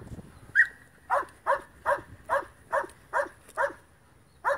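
A dog barking over and over in a steady rhythm, about two to three short, falling barks a second, with a pause near the end.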